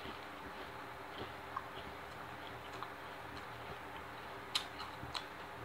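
Close-miked chewing of a sub sandwich with the mouth closed: faint, irregular wet clicks and smacks, two sharper ones near the end, over a steady background hiss.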